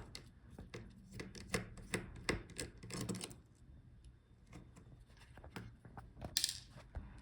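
Small screwdriver unscrewing the DC power jack bracket screw inside a laptop: faint scattered clicks and scraping as the tool turns the screw.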